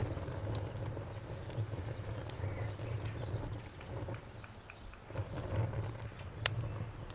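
Campfire crackling: burning wood giving scattered pops and snaps over a low rumble of flames, with one sharper pop near the end.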